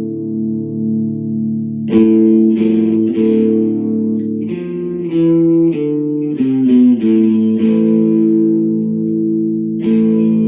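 Electric guitar played through a Sound JS HM-5 distortion pedal (an HM-2-style heavy metal pedal) with its controls set at zero: ringing chords, strummed again about two seconds in, a quick run of changing chords in the middle, and a fresh strum near the end.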